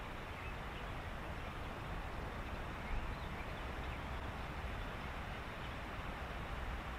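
Reed-bed ambience: a steady hiss with faint short bird chirps scattered through it over a low rumble, and one brief louder sound about three seconds in.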